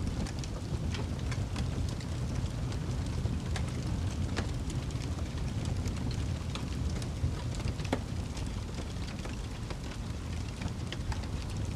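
Fire burning in a fireplace: a steady low rumble of flames with scattered sharp crackles and pops, two of them louder, about four and eight seconds in.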